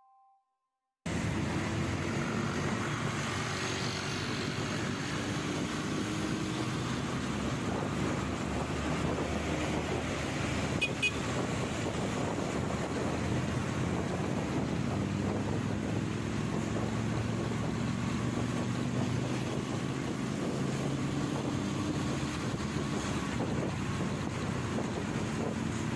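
Motorcycle ride heard from the rider's microphone: steady wind buffeting the mic, with the motorcycle engine running underneath at a slowly shifting pitch. It begins about a second in, after a short silence.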